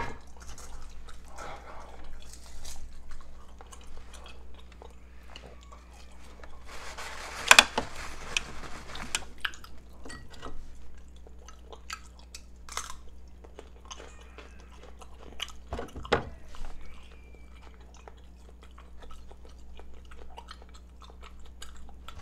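Close-up eating sounds: chewing and biting with wet mouth clicks and crunches, as rotisserie chicken and a baby cucumber dipped in cheese sauce are eaten. It is loudest and noisiest about seven to nine seconds in.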